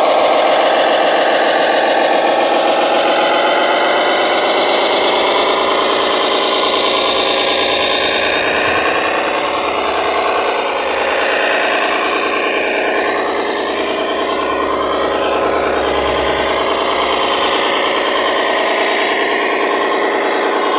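Small electric motors and gearing of radio-controlled model construction machines running steadily with a buzzing whir.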